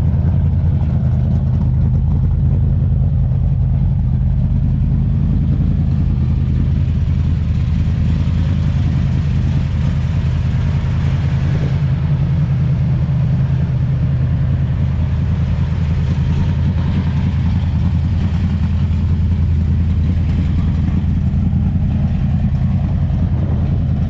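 Dodge Charger's exhaust idling steadily through Porter mufflers: a low, even rumble.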